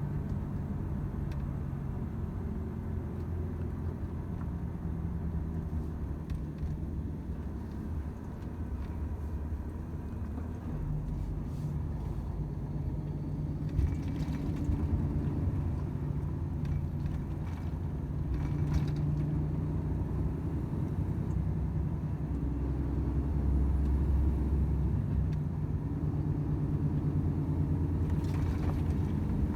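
Volvo FH 500 truck's 13-litre inline-six diesel engine running under way, a steady low drone whose pitch and loudness shift as the load changes, louder in the second half. A couple of brief clicks stand out, about halfway through and near the end.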